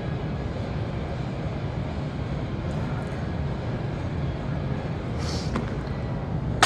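Steady low rumbling background noise, with a brief hiss a little after five seconds and a single sharp clank at the very end, like a cable machine's weight stack being set down.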